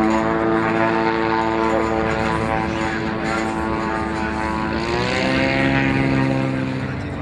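Seaplane's propeller engine running with a steady droning tone whose pitch shifts about five seconds in.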